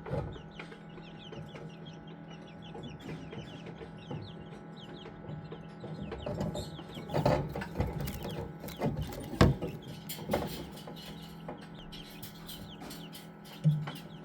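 Young chicks peeping continuously over a steady low hum. A few sharp knocks come in the second half, the loudest about nine seconds in.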